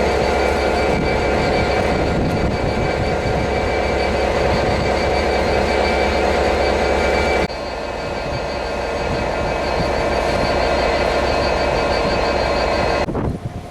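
A train running past, with steady rail and wheel noise and a steady high whine. The sound drops abruptly about halfway through and falls away again near the end.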